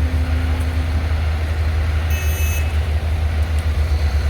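Heavy construction machinery engines running with a deep, steady rumble. A brief high-pitched beep sounds about two seconds in.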